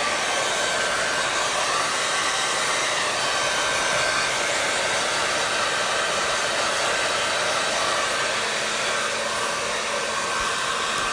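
Hair dryer running steadily: an even rush of blown air with a faint steady whine from the motor.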